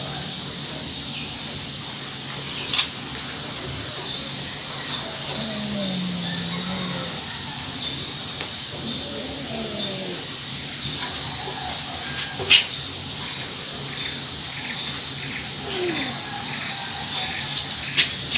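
Steady high-pitched drone of insects in a continuous chorus, broken by three sharp clicks: a few seconds in, past the middle, and near the end.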